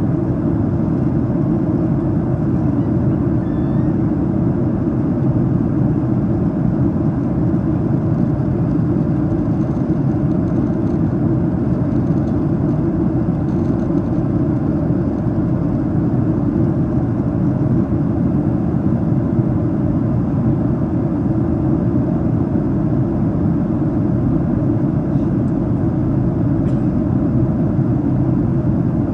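Steady low cabin noise of a Boeing 737-800 airliner in flight during its descent: the even rush of airflow and engines heard from a passenger seat, unchanging throughout.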